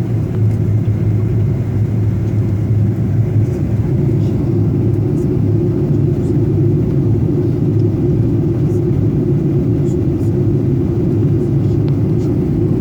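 Airliner cabin noise during descent: a steady low rumble of engines and airflow, with a few faint clicks.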